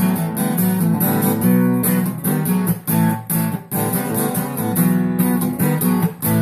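Acoustic guitar strummed in a steady rhythm, with several strokes a second, playing an instrumental break between the verses of a country song.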